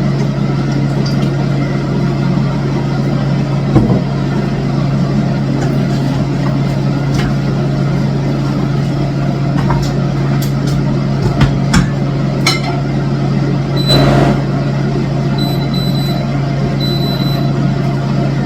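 A steady low engine-like hum runs throughout, with a few sharp knocks and, near the end, a run of short high-pitched beeps.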